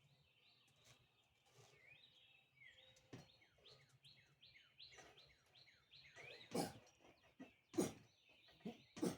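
Faint bird song: a quick series of short, falling chirped notes, about three a second. Near the end come a few short breathy puffs.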